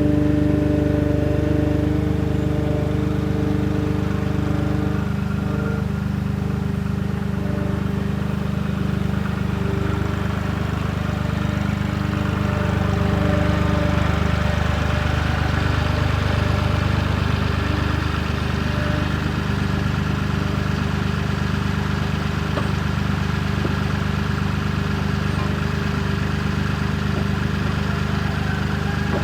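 Avant 755i compact loader's engine running steadily under work, a constant hum with a few steady tones that shift slightly over time.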